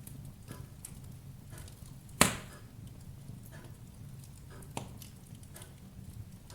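Wood fire in a fireplace crackling: scattered small snaps over a low steady rumble, with one loud pop about two seconds in and a smaller one near five seconds.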